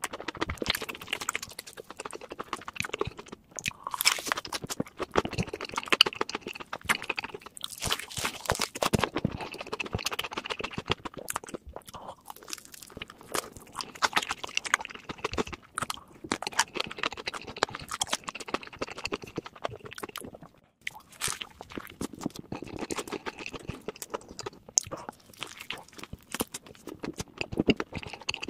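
A person chewing and biting crunchy food close to the microphone: dense, irregular crunches and crackles in clusters with short pauses between.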